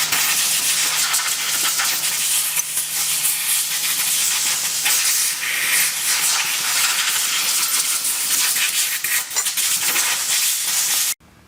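Loud, steady hissing of a pressurised jet, with a fine crackle through it. It cuts in and cuts off suddenly.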